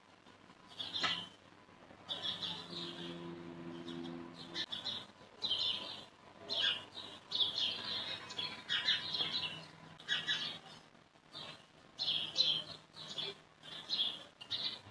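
Small birds chirping in quick, repeated short calls, with a faint low hum underneath at times.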